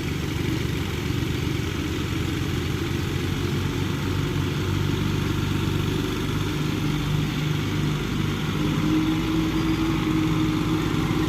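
Kubota tractor's diesel engine running steadily under work, its note shifting a little partway through.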